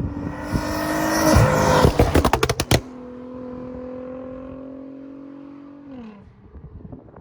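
Nissan GT-R R35's twin-turbo V6 with a loud aftermarket exhaust revving up hard. On lift-off about two seconds in comes a rapid string of sharp bangs, then the engine settles to a lower steady note that drops again near the end.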